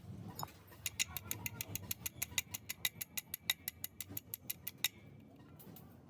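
A fast, even run of sharp metallic clicks, about seven or eight a second, starting about a second in and stopping abruptly at about five seconds, over a low background hum.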